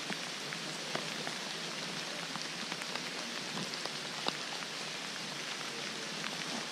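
Steady rain falling: an even hiss with scattered sharp ticks of single drops striking close by.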